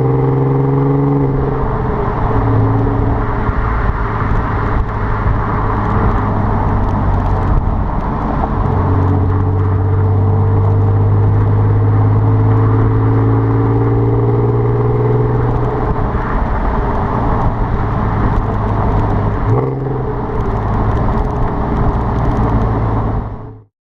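Audi TT 3.2's VR6 engine through a non-resonated Milltek exhaust, running loud at a steady engine speed, its note stepping up or down in pitch a few times with a short blip about 20 seconds in. It cuts off abruptly near the end.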